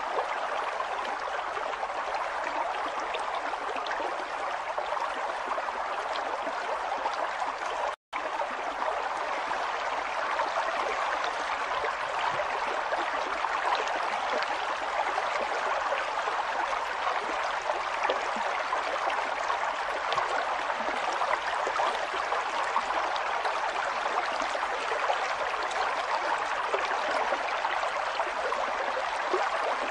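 River water flowing steadily over rocks, with a momentary cut to silence about eight seconds in.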